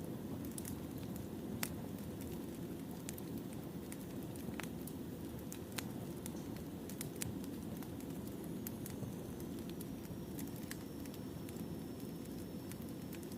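Burning firewood crackling: a steady low rush of flames with scattered sharp pops and snaps at irregular intervals, and a faint thin high whistle in the second half.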